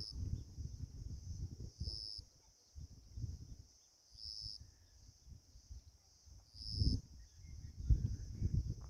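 Insects calling: a steady high-pitched trill with a louder pulse about every two to two and a half seconds, over an uneven low rumble.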